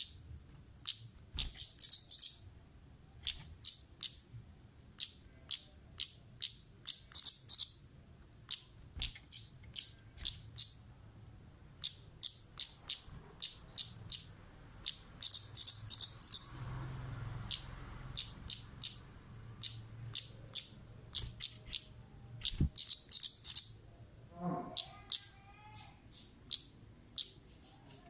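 Kemade (talokan) songbird calling steadily: rapid, sharp, high-pitched chirps repeated one after another in short clusters with brief pauses, used as a lure (pancingan) recording. A single lower, wavering call sounds once, near the end.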